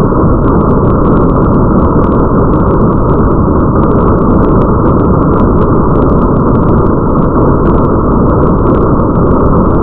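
Steady, muffled rain ambience with a deep rumble underneath, loud and unchanging, with faint scattered drop ticks above it.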